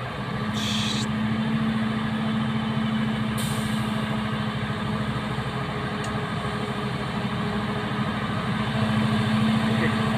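Diesel engine of a Mitsubishi Fuso truck running steadily under load, with two short hisses of compressed air, about half a second in and about three and a half seconds in.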